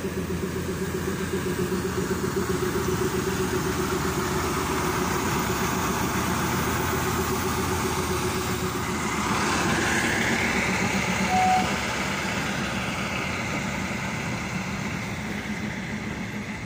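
Slow-moving heritage passenger train rolling past close by, its carriages running steadily over the rails. The SM30 diesel shunting locomotive's engine is loudest as it goes by, about nine to twelve seconds in, with a short single tone near the middle of that.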